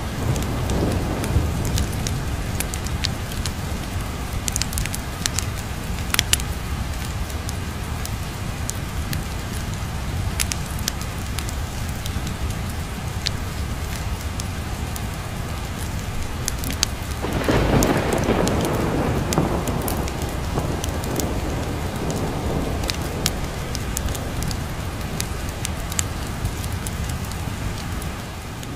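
Steady rain with a roll of thunder that swells about two-thirds of the way through and fades over a few seconds. Sharp crackling pops from a fireplace fire are scattered through it.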